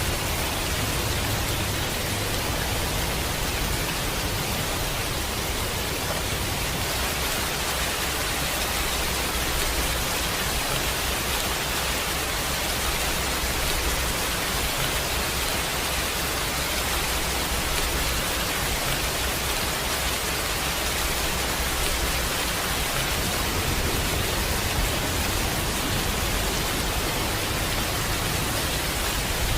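Steady heavy rain falling as an even, unbroken hiss. A low rumble underneath eases off through the middle and builds again near the end.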